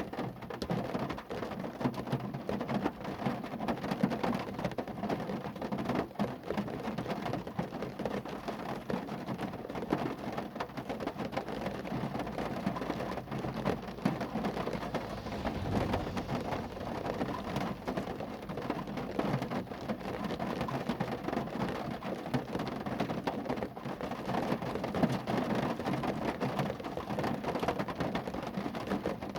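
Rain falling on a car: a steady, dense patter of many drops striking the body.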